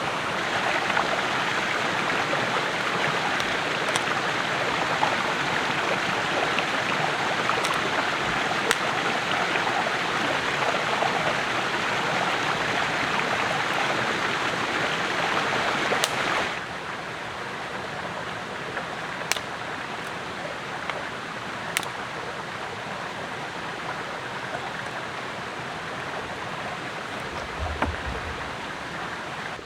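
A steady rushing noise, like flowing water, with a few faint clicks. About two-thirds of the way through it suddenly becomes quieter and carries on at the lower level.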